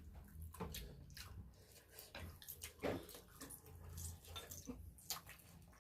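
A person eating up close: wet chewing and lip smacks heard as a string of irregular soft clicks.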